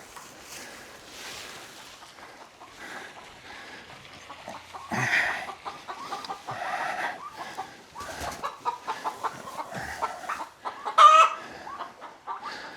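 Barnyard fowl clucking in short notes, with one sharp, louder call about eleven seconds in. A thud comes about five seconds in.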